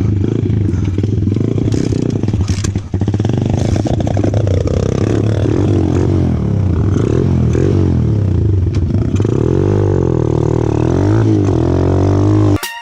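125cc four-stroke pit bike engine revving, its pitch rising and falling repeatedly as the throttle is worked, with some clattering. The engine sound cuts off suddenly near the end.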